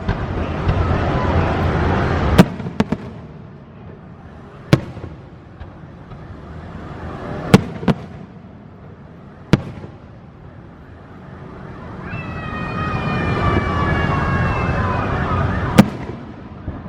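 Aerial fireworks display: about eight sharp booms of shells bursting, spread irregularly, over a steady rushing noise. A few seconds before the end a long, slowly falling whistling tone runs for about four seconds.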